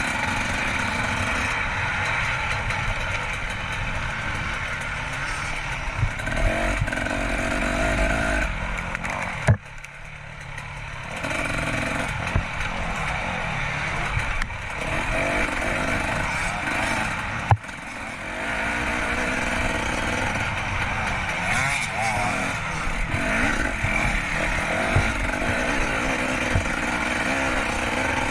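Dirt bike engine running hard with changing throttle, cutting back sharply about ten seconds in and again briefly near eighteen seconds, each time opening with a sharp knock.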